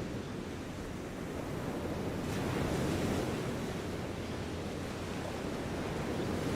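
Steady, low rumbling ambient noise with no distinct events, and a brief swell of hiss about two and a half seconds in.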